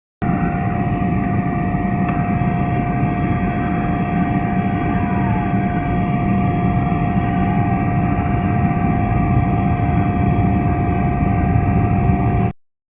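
Boeing 777-300ER's GE90 jet engines heard inside the cabin: a loud, steady low rumble with a steady whine over it.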